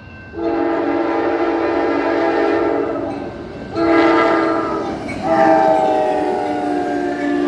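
Amtrak Cascades passenger train's multi-chime horn sounding three blasts, long, short, then long, with the chords of the last blast drooping slightly in pitch as the train passes.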